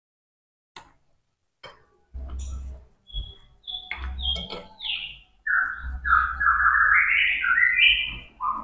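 Two light clinks of a spoon on a plate, then a bird chirping and singing in short repeated phrases from about two seconds in, growing louder past the middle.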